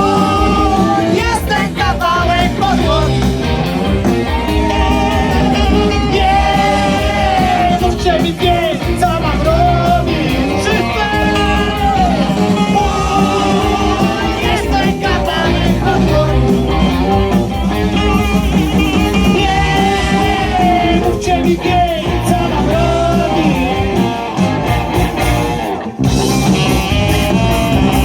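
Rock band playing a song: singing over electric guitar, bass guitar and drums, with a brief drop in loudness near the end.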